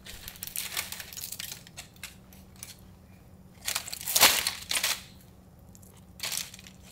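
Close-up crunching of hard fried pork rinds (chicharrones) being bitten and chewed, in uneven crackly bursts, the loudest cluster a little past the middle and a shorter one near the end.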